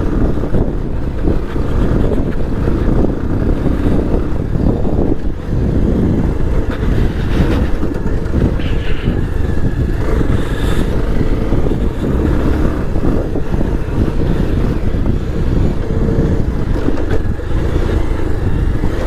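Motorcycle running steadily while being ridden along a rough off-road track, the engine mixed with dense ride noise.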